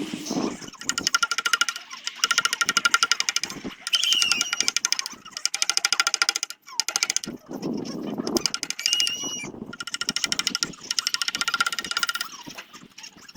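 Power sanding tool working zelkova root wood in spells: a rapid, even chattering with a steady whine on top and short squeals as the abrasive bites. It stops briefly a few times, most clearly about six and a half seconds in.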